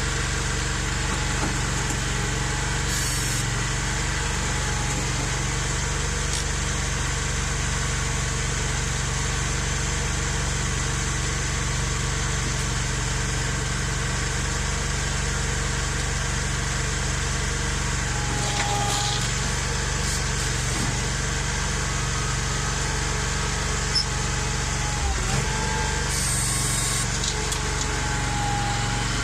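Ventrac compact tractor's Kawasaki engine running steadily. A few short squeaks and a knock come in the second half.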